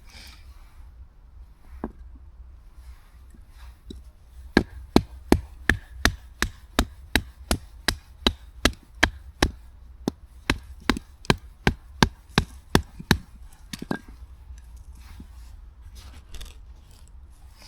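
A steady series of sharp chopping strikes on wood, about two or three a second, with a brief pause midway and a few single knocks before and after.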